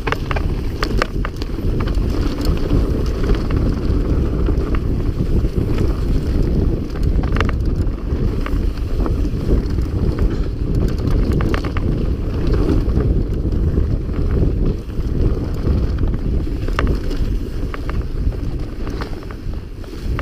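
Wind buffeting a camera microphone mounted on a mountain bike ridden fast on a dirt trail, a constant rumble. It is broken by many short clicks and rattles from the bike and the stones on the ground.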